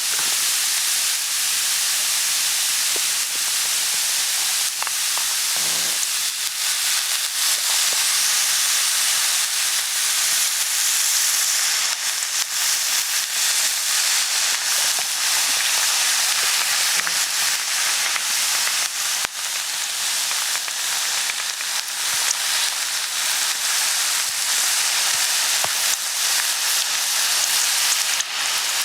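Food sizzling on a hot iron griddle: a steady hiss with scattered small crackles.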